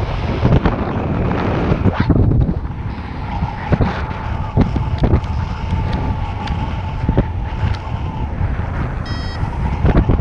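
Strong wind buffeting the microphone in flight under a paraglider, a dense, gusty rumble. A faint steady high tone runs under it from about three seconds in, and a short beep sounds near the end.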